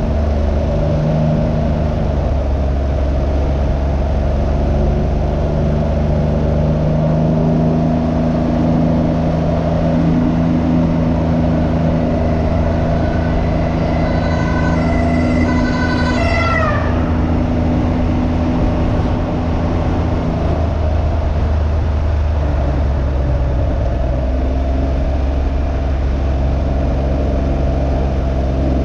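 Can-Am Ryker 900's three-cylinder engine running at road speed, its pitch holding steady with small step changes, under constant wind rush. About halfway through, a high tone passes and drops in pitch as it goes by.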